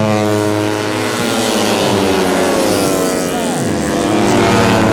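Several 150cc four-stroke racing underbone motorcycles running at high revs, their engine pitch falling as they pass and ease off at about two to three and a half seconds in, then rising again as they pull away.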